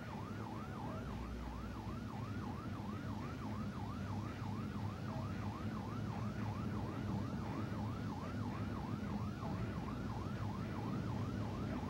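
Police car siren in a fast yelp, about three rising-and-falling sweeps a second, heard from inside the pursuing cruiser over steady engine and road noise.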